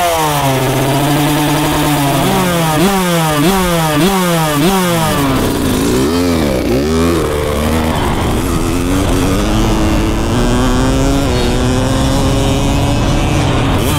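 Dirt bike engine revving. A quick run of throttle blips comes first, each rising in pitch and dropping off. The engine then swells up and down, and finally climbs slowly and steadily in pitch as the bike accelerates.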